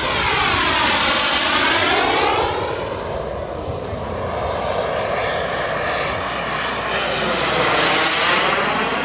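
Turbine-powered RC jet flying past twice, its high turbine whine and roar swelling, with the loudest passes about a second and a half in and near the end.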